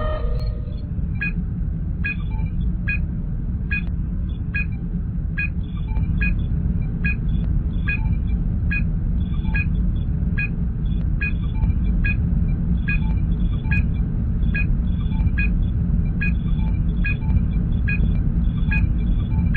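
Sci-fi starship ambience: a steady low engine rumble with a short electronic sensor-scan beep repeating a little more than once a second. A brief chirp of several computer tones sounds right at the start.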